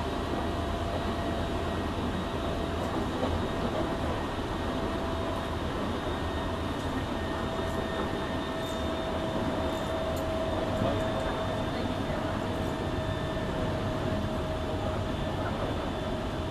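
Hankyu 7000 series electric train running at steady speed, heard from inside the car: a continuous rumble of wheels on track with a steady tone over it and no let-up.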